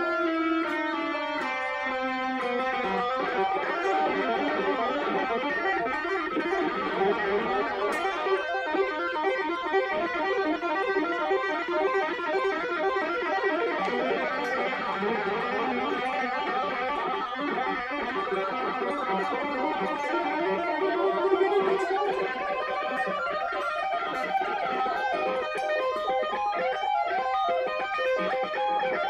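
Electric guitar playing, with fast runs of notes.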